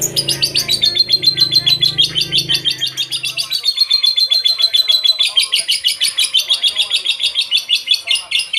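Lovebird singing a long, unbroken run of rapid, high chirps, about eight to ten a second.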